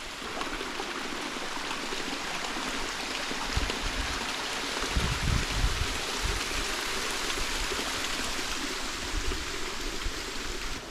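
Steady rush of falling water from small forest waterfalls. A few low bumps come around the middle.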